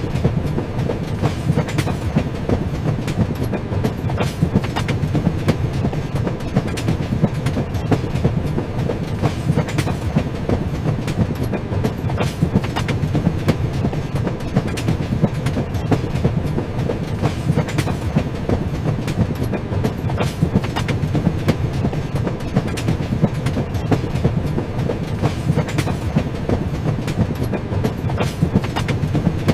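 Moving train running steadily over the rails: a continuous low rumble with the rhythmic clickety-clack of the wheels over rail joints.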